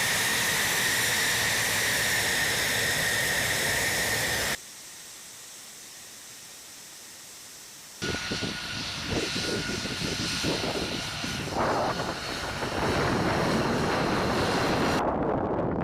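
F-35 fighter's jet engine running with a steady high whine over a loud rush. It cuts off abruptly about four and a half seconds in, is much quieter for about three seconds, then returns with a fainter, slightly lower whine; near the end the high hiss drops away, leaving a lower rumble.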